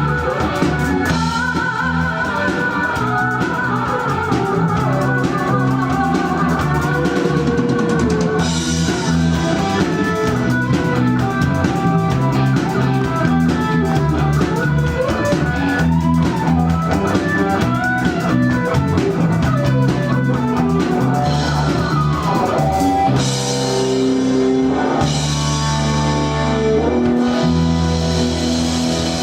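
Live rock band playing without vocals: drum kit and bass under guitar, with a lead line that wavers and slides in pitch. The drums and bass grow heavier in the last few seconds.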